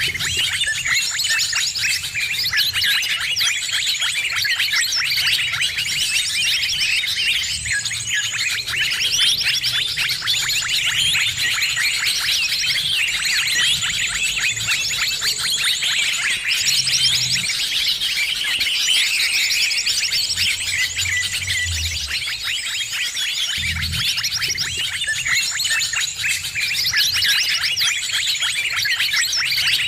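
Dense chorus of many small birds chirping and twittering over one another without a break, the busy mixed birdsong used as a lure to draw in other birds. A low rumble comes and goes underneath.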